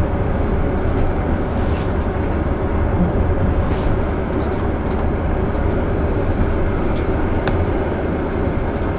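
Steady low rumble of a moving passenger train, heard from inside the carriage, with a few faint ticks.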